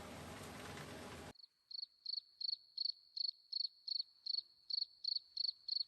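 A steady rushing noise cuts off abruptly about a second in. It is followed by a cricket chirping at an even rate of roughly two to three high chirps a second.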